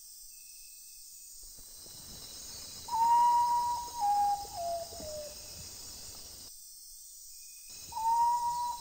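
Rainforest at dusk: a steady high insect chorus, and a bird's clear whistled call starting about three seconds in. The call is a long note that steps down in pitch in a few stages over about two seconds, and it comes again near the end.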